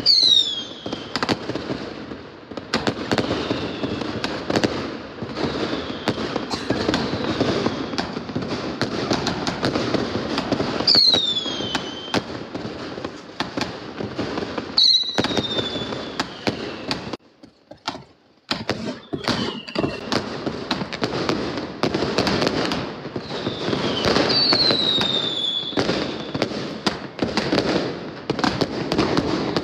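Fireworks and firecrackers going off without a break: dense crackling and bangs, with whistles falling in pitch every few seconds. The racket drops away briefly about seventeen seconds in.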